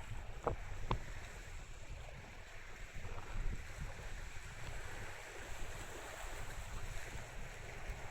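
Car ferry's steady low rumble of engines and water, with wind buffeting the microphone and two short knocks about half a second and a second in.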